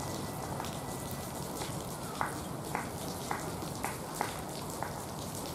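Steady heavy rain falling, with sharp drips landing on a nearby surface every half second or so.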